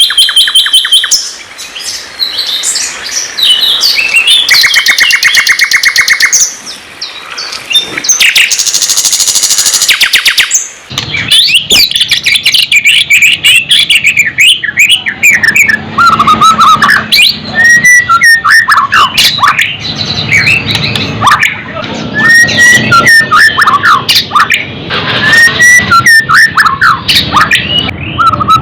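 Loud, continuous songbird song mixing sikatan londo and white-rumped shama (murai batu) calls: rapid trills and buzzy repeated notes at first, changing about eleven seconds in to varied whistled phrases over a faint low hum.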